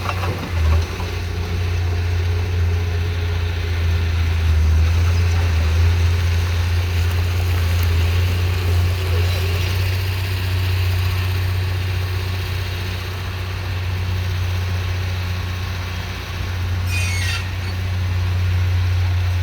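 Heavy diesel earthmoving machinery running under load with a steady low engine drone. A brief high squeal comes about 17 seconds in.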